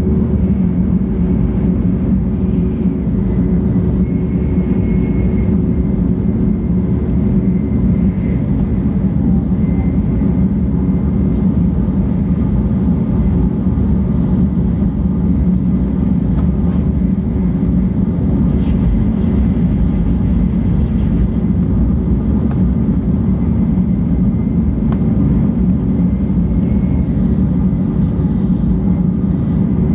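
Steady running noise inside a 700 series Shinkansen passenger car: a dense low rumble of the train under way, with a faint high whine on top.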